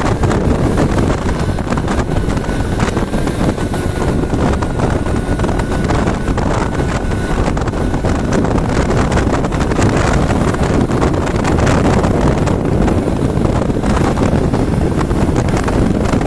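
Wind rushing over the microphone on a moving motorcycle, with the motorcycle's engine and road noise underneath, steady throughout.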